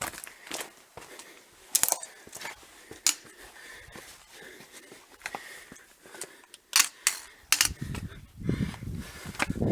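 Footsteps on loose rock and gravel, with sharp clicks and knocks of stones struck or shifted underfoot; heavier, thudding steps near the end.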